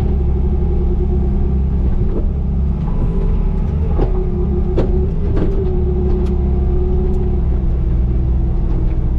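Bobcat T595 compact track loader's diesel engine running steadily under work, with a steady whine over the drone and a few sharp clanks in the middle.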